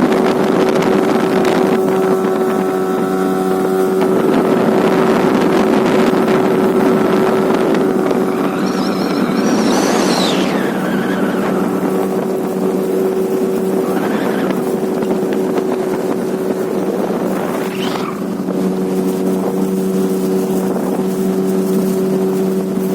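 Tohatsu 18 hp outboard motor running at a steady speed while driving a boat, with water rush and wind on the microphone. A brief louder whooshing surge comes about ten seconds in, and smaller ones follow twice later.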